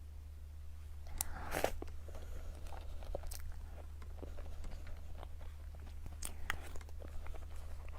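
Mouth sounds of someone eating cake: bites and wet chewing, with sharper smacks a little over a second in, at about three seconds and around six seconds. A steady low hum runs underneath.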